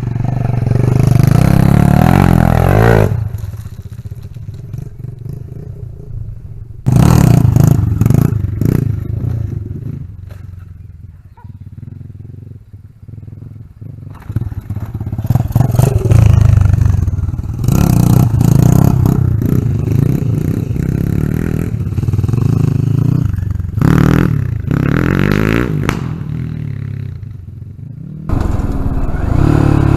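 Dirt bike engine revving up and easing off over and over as it is ridden round, its pitch rising and falling. It is loud when the bike is close and quieter for a few seconds at a time when it is farther off.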